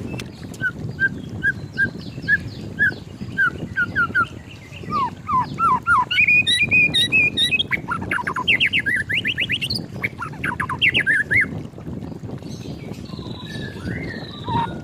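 White-rumped shama singing. It starts with a run of short, evenly spaced whistled notes, breaks into a louder, faster burst of quick rising notes in the middle, and grows quieter near the end.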